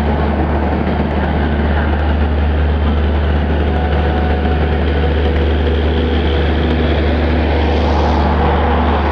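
A train running on the track, a loud steady low rumble with a hiss over it.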